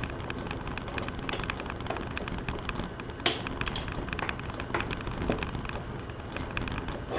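Light metallic clinks and handling noises from tools and parts being moved about, with one sharp click a little over three seconds in.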